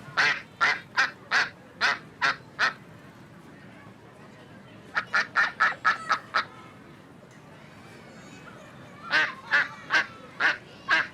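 Waterfowl calling in three bouts of short, evenly spaced calls. The middle bout is the quickest.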